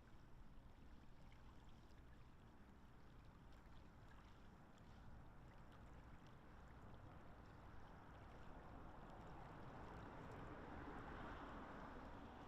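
Faint lapping and wash of lake water at the shore, swelling slightly near the end.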